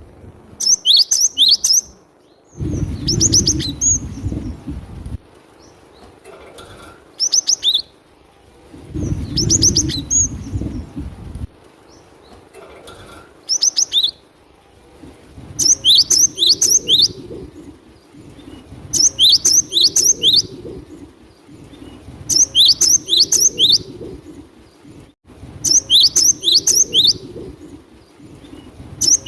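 Cinereous tit (gelatik batu) singing: short, loud phrases of three to five quick whistled notes, each sweeping downward, repeated about every three seconds.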